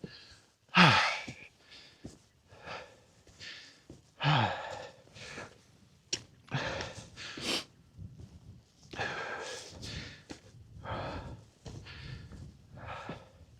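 A person breathing hard while climbing: a string of loud, noisy breaths about one a second. Two early exhales, about a second in and again about four seconds in, carry a falling voiced sigh.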